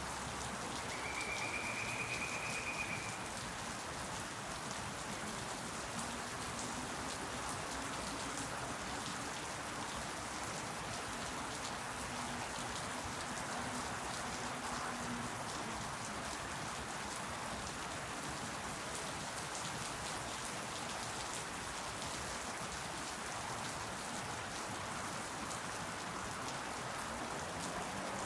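Steady rain falling, an even hiss of many drops. About a second in comes a brief high, whistle-like tone lasting a couple of seconds.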